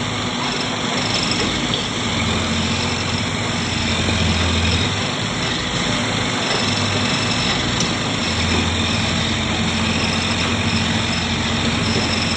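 Tractor diesel engine running steadily, its low hum swelling and easing every few seconds.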